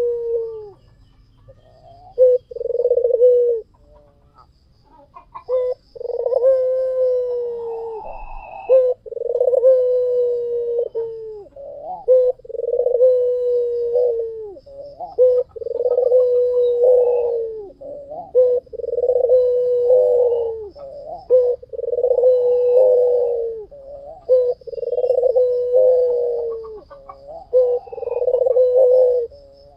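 White Barbary (ringneck) dove cooing over and over: after a few short notes, a long run of low, drawn-out coos about two seconds apart. Faint high chirps sound in the background.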